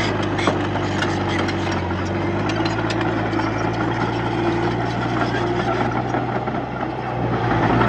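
Komatsu D31P bulldozer's diesel engine running steadily under work, with irregular metallic clanks and rattles, most of them in the first few seconds.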